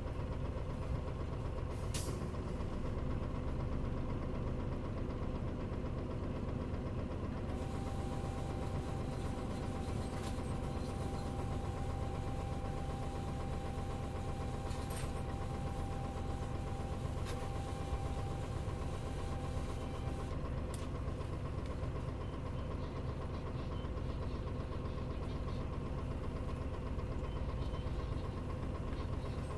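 Mitsubishi Fuso Aero Star bus (KL-MP35JM) engine running steadily, heard from inside the bus. A few sharp clicks occur, and a thin steady whine sounds from about eight seconds in to about twenty seconds in.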